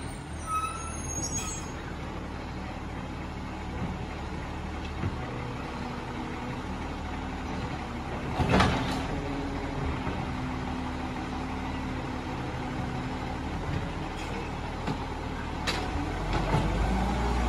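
Rubbish truck engine running steadily, with one loud sharp clunk about halfway through and a smaller click near the end. The engine grows louder just before the end.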